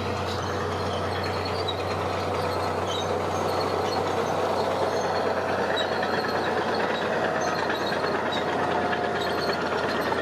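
Heavy diesel earth-moving machinery running steadily under load, a continuous engine drone with a low hum and a few held tones above it, getting slightly louder about three seconds in.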